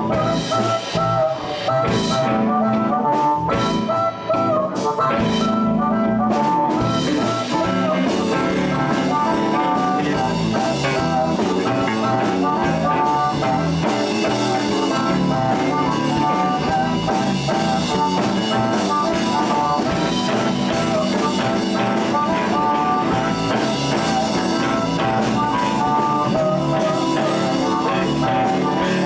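Live blues band playing an instrumental break with drum kit, bass and guitar, and a lead line of held notes over the band.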